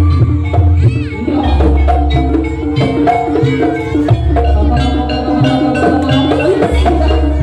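Jaranan ensemble music: gamelan-style metallophones and gongs striking a fast, repeating melodic pattern over drums and a deep, held bass.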